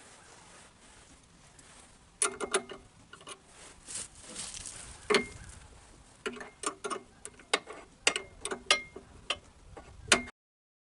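Irregular metallic clicks and clinks, some with a brief ring, as a new hydraulic pressure switch is worked into its threaded fitting. They start about two seconds in and cut off suddenly just before the end.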